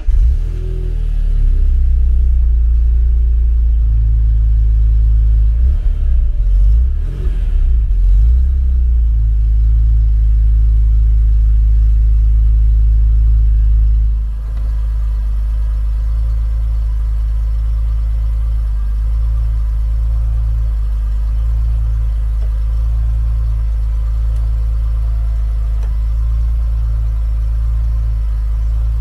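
BMW E46 M3's S54 3.2-litre straight-six starting up, heard at the exhaust: it catches with a flare, runs unevenly with a few revs about six to nine seconds in, then settles into a steady idle.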